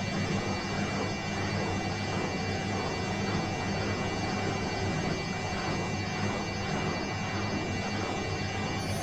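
Bosch washing machine running steadily: an even motor hum with a faint, steady high whine over it.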